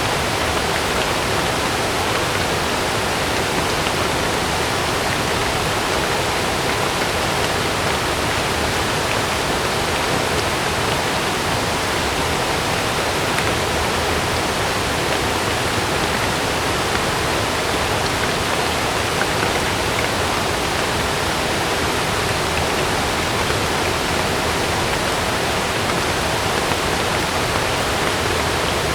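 Heavy rain falling steadily, an even rushing hiss with no thunderclap or gust standing out.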